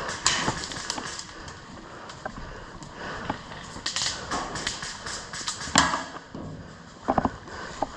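Airsoft guns firing in scattered single shots and short bursts, heard as irregular sharp snaps and clicks; the loudest comes just before six seconds in, and a quick run of three follows about a second later.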